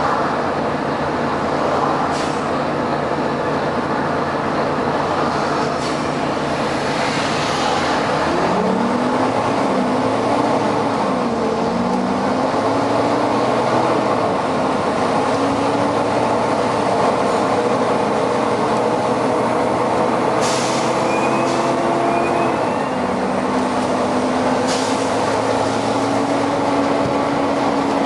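Volvo B9TL double-decker bus running under way, over a steady heavy drone. Its engine and drivetrain pitch rises and falls several times through the middle, as it accelerates and changes gear. Short hisses of air come from the bus's air system, two of them near the end.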